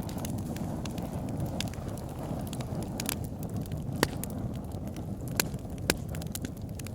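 Wood fire burning in a log burner: a steady low rumble of flames with frequent sharp crackles and pops from the logs, a few louder pops about four seconds in and again near the end.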